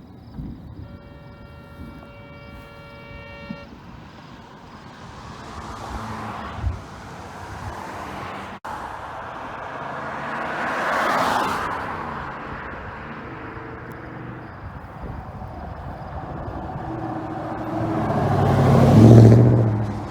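Vehicles passing close by on a highway: one swells and fades about halfway through, and a louder one with a low engine note passes near the end. Near the start a steady horn-like tone sounds for about three seconds.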